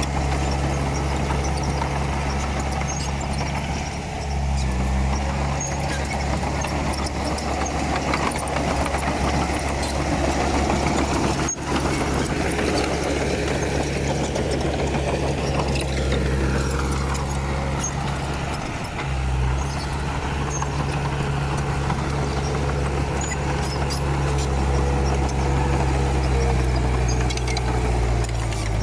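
Komatsu D31P bulldozer's diesel engine running steadily under work, its note dipping briefly about 4 seconds in and again about 19 seconds in, and shifting pitch near the end.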